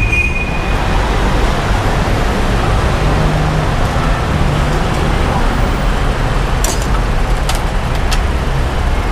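Steady road traffic noise, with a few light clicks near the end.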